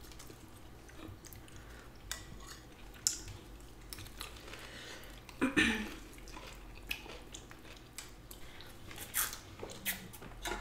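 Close-up eating sounds: chewing and biting on noodle soup and vegetables, with scattered small clicks and a few louder short sounds, one about five and a half seconds in and two near the end.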